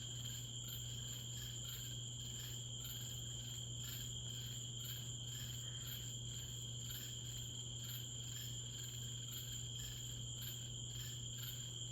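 Night insect chorus, a steady high-pitched trilling with a quick even pulse, over a steady low hum. No thunder is heard.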